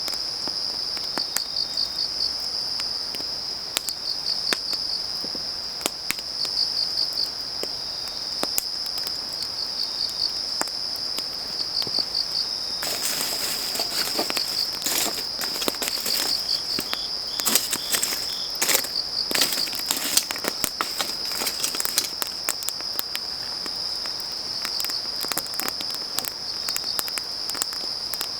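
Crickets trilling steadily and high, with short pulsed chirps every second or two, over a wood fire crackling. The crackles turn into a dense flurry of sharp pops in the middle.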